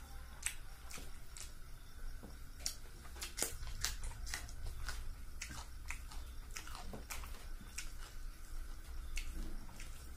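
Close-up chewing of fish curry and rice: wet mouth clicks and smacks at an irregular pace, over a low steady hum.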